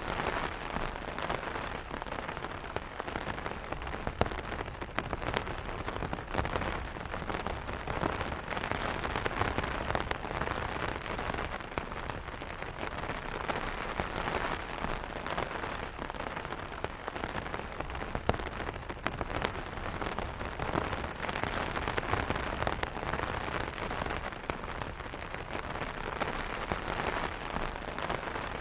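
Rain pattering steadily on an umbrella canopy, a dense spread of drops with frequent sharper individual drop hits.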